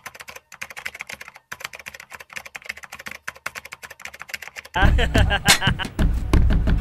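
Typing sound effect: rapid, irregular keystroke clicks that come in time with text appearing on screen letter by letter. Nearly five seconds in, a much louder sound cuts in suddenly.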